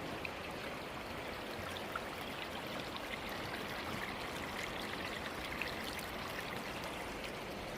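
A small creek running steadily over rocks, a constant rush of water with faint splashes and trickles.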